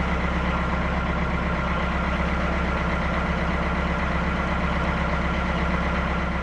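Narrowboat engine running steadily at cruising pace, a constant low chugging hum.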